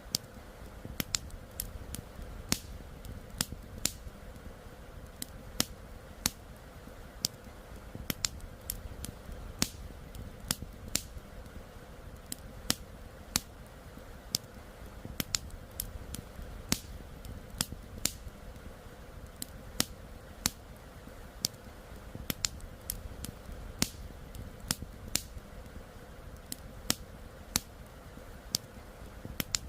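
Wood campfire crackling, with sharp irregular pops a few times a second over a steady low rush of flowing river water.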